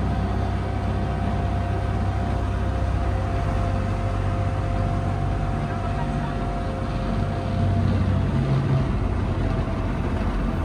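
Engine of a Disney Friendship water-taxi boat running steadily, heard on board as a low drone with a faint steady whine above it that fades about three-quarters of the way in.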